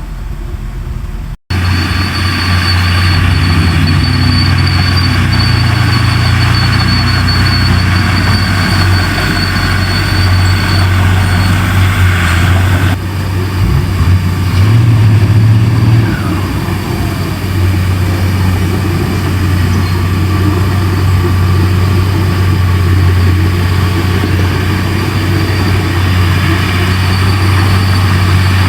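Large bulldozer's diesel engine running steadily, with a high thin whine over it for the first several seconds. The revs rise briefly about halfway through, then settle back.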